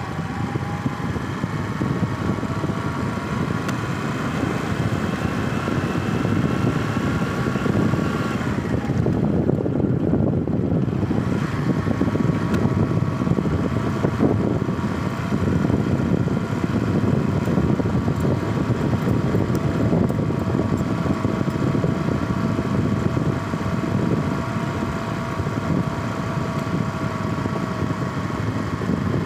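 Vehicle on the move with a steady rumble and a whining tone above it. The whine glides down and fades about eight seconds in, then comes back a few seconds later and holds steady.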